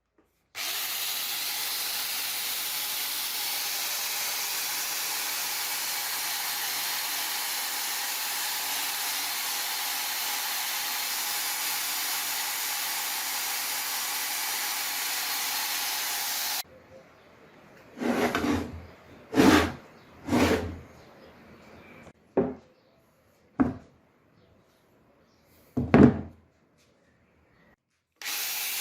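A steady, loud hiss that starts abruptly and cuts off suddenly after about sixteen seconds, followed by about six short knocks and rubs of handling.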